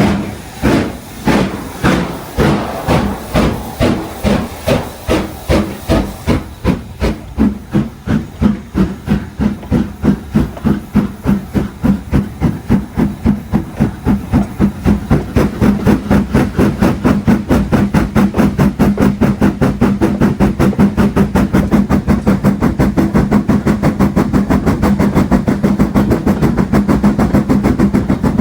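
Stanier 8F steam locomotive pulling away, its exhaust beats speeding up steadily from about two a second to about five as the train gathers speed. A loud hiss of steam accompanies the first few seconds and then fades.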